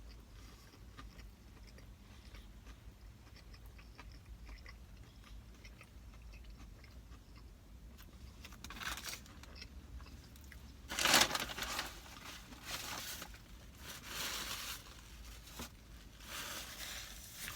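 A person biting into and chewing a thin, heavily breaded spicy chicken sandwich, with a run of crunchy chews in the second half, the loudest about eleven seconds in.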